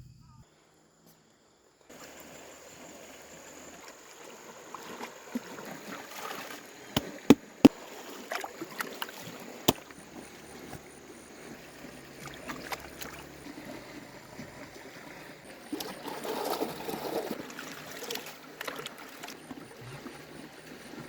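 Water splashing and trickling, with a few sharp knocks about five to eight seconds in.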